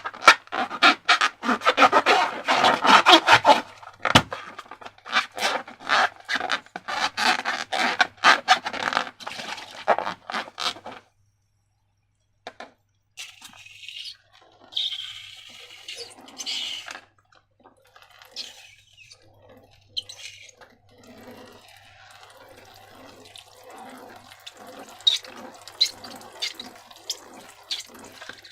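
Sticky slime squelching and crackling in a dense run of wet clicks for about eleven seconds. After a brief pause comes softer, slower squishing with scattered clicks.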